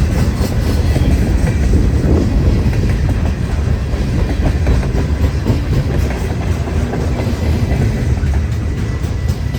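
Freight cars of a passing train rolling by: a steady, loud rumble of wheels on rail with irregular clicking over the rail joints.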